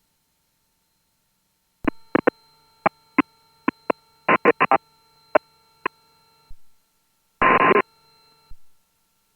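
Aviation radio picking up a string of sharp clicks and pops, some in quick clusters, over faint steady electronic tones, followed a little later by a short burst of static and one last click.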